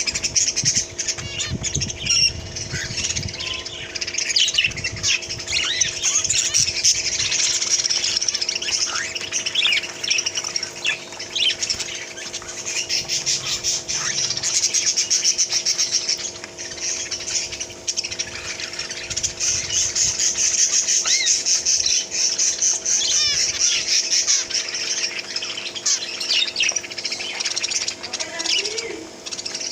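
A flock of small caged pet birds chirping and squawking together in a dense, continuous chatter.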